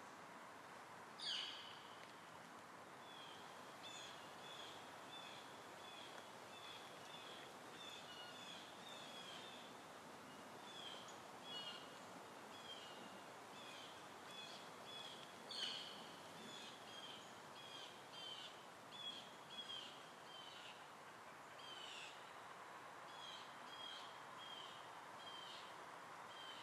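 Faint small-bird chirping, short high chirps repeating a couple of times a second over a steady outdoor background hum, with two louder, sharper calls, one about a second in and another about halfway through.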